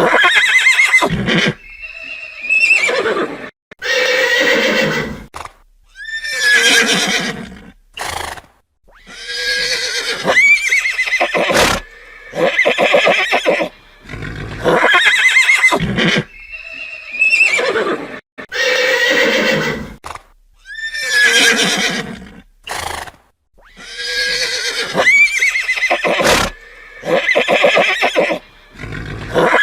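Horses neighing and whinnying, one call after another with short gaps. Each call is a quavering cry a second or two long that rises and falls in pitch.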